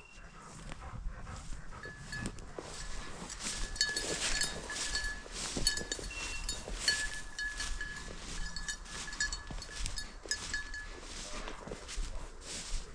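A small bell jingling over and over, amid rustling and crunching through brushy cover. The bell is typical of the bell worn on a bird dog's collar as it hunts through the cover.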